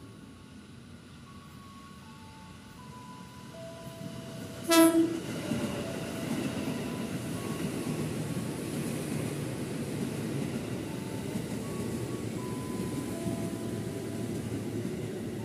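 Electric commuter train (KRL EMU) gives one short horn blast about five seconds in. Then the rumble of its wheels and running gear builds and holds steady as the cars pass close by.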